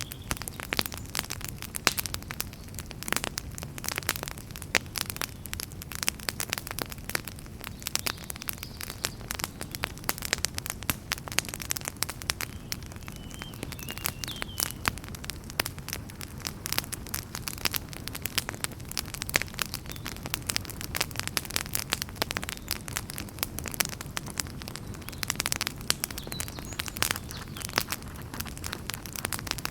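Fire in a fireplace crackling: a steady run of irregular pops and snaps over a low, even rush of flame.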